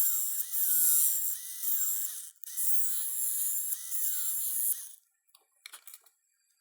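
A small handheld repair tool hissing and whirring in three runs, with a short stop about two and a half seconds in, then a few light clicks near the end.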